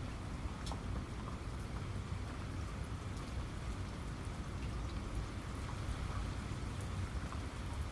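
Steady rain falling, with a low rumble underneath and separate drops ticking sharply every so often.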